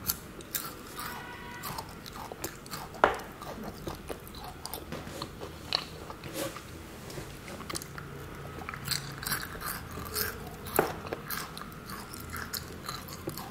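A person biting and chewing matcha chocolate, with scattered sharp crunches and smaller clicks of the mouth throughout.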